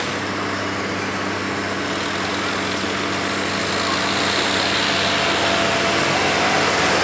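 Tractor engine running steadily at low revs, slowly getting louder.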